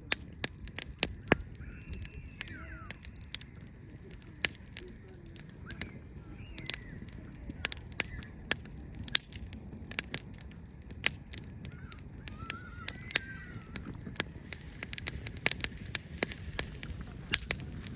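Wood fire crackling with frequent sharp pops over a low steady rumble. A bird calls faintly a few times, about two, six and thirteen seconds in.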